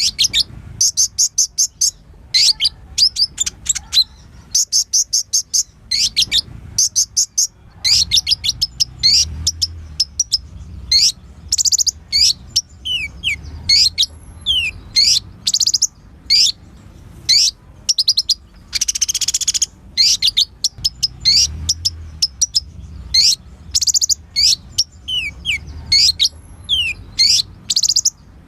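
Crimson sunbird (kolibri ninja) singing: bursts of rapid, high-pitched chirps and sharp down-slurred notes in quick succession, with one harsher, buzzy burst about two-thirds of the way through.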